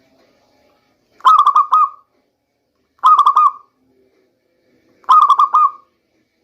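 Zebra dove (local perkutut) cooing: three short phrases of quick rolling notes, about two seconds apart.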